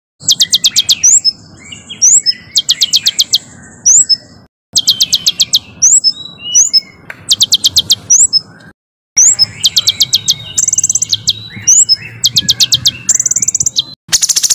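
Small songbird singing rapid, harsh bursts of sharp repeated notes, about a dozen a second, between short rising chirps. The song breaks off abruptly twice, with a moment of silence each time before it resumes.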